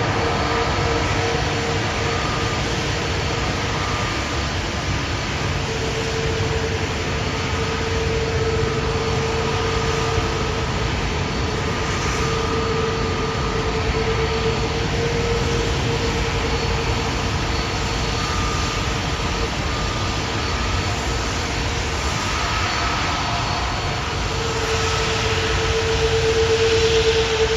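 Jet airliner engines running steadily, a continuous rushing noise with whining tones that fade in and out, growing louder near the end.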